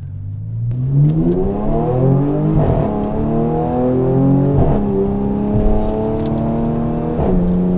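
2013 Audi S5's supercharged 3.0-litre V6, with its slightly modified, louder exhaust, accelerating hard under full throttle. The engine note climbs steadily, then drops at three paddle-shifted upshifts, about two and a half, five and seven seconds in.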